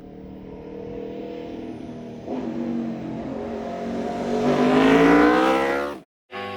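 Aprilia RSV4 V4 engine through an SC Project exhaust, revving: a sharp step up about two seconds in, then a steady climb in pitch and loudness to its loudest near five seconds. It cuts off abruptly about six seconds in, and music starts.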